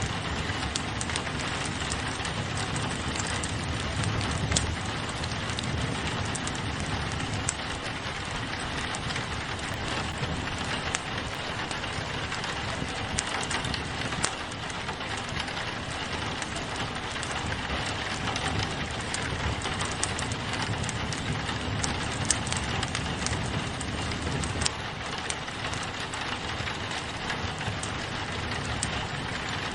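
Steady rain pattering on a window, mixed with a wood fire crackling, with scattered sharp pops and ticks.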